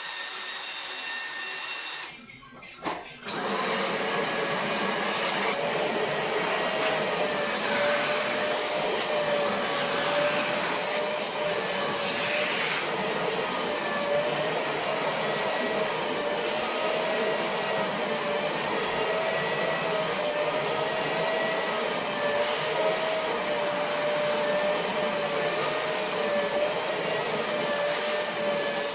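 Vacuum cleaner running with a steady whine. It drops out briefly about two seconds in, then runs on louder and unbroken.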